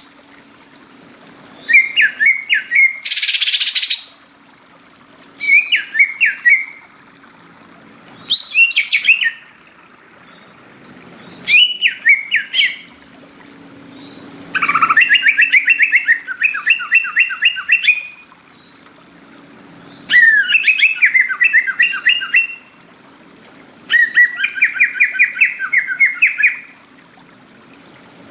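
Cucak ijo (green leafbird) singing: a string of short bursts of fast chattering, trilled song, each lasting one to three seconds with brief pauses between. There is one harsh, rasping burst about three seconds in, and a faint steady hum underneath.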